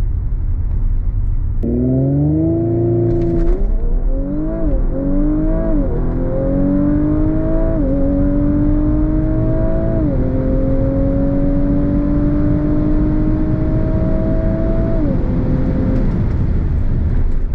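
2019 Audi RS5's twin-turbo V6 making a full-throttle launch about 1.5 seconds in. It then pulls hard through the gears, its note rising and dropping back at five quick upshifts. It keeps climbing slowly in a high gear and lets off near the end.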